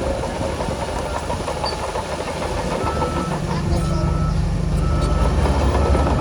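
Heavy diesel earthmoving machinery running steadily with a low drone. From about three seconds in, a reversing alarm beeps about once a second, the sign of a machine backing up.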